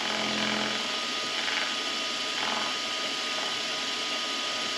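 Vevor MX400 mini lathe running at about 1250 RPM, with a steady whine, while the tool takes a very light skim cut on a rough aluminum edge. The cutting noise swells briefly a couple of times as the tool hits the high spots of the torn surface.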